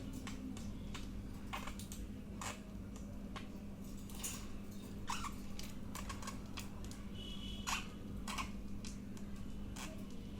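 Budgerigars giving short, sharp chirps and clicks at irregular intervals, with a brief thin whistle about seven seconds in, over a steady low hum.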